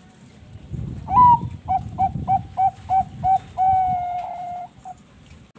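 Bangkok perkutut (zebra dove) cooing: a rising opening note, a run of about seven short quick coos, then one long held coo and a short last note, over a low rumble.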